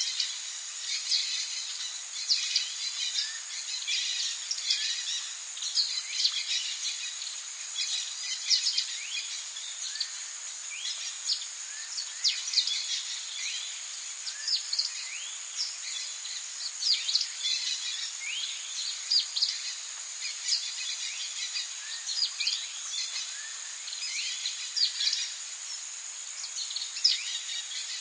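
Tropical rainforest ambience: many birds chirping in quick, short calls over a steady high-pitched insect drone.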